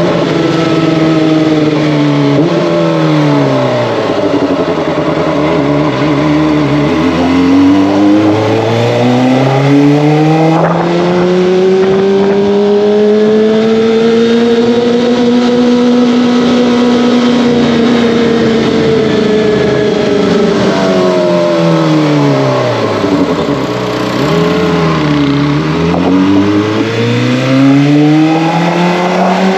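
Kawasaki ZX-25R's 249 cc inline-four engine and exhaust under way. The engine note falls off at first, then climbs slowly in pitch and holds. It drops away again about two-thirds through and rises once more near the end.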